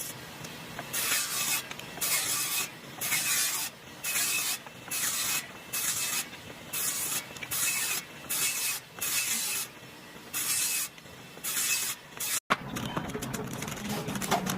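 Short bursts of hissing, each under a second long and coming about once a second, with quiet gaps between them. About twelve seconds in they break off and a steadier, lower sound takes over.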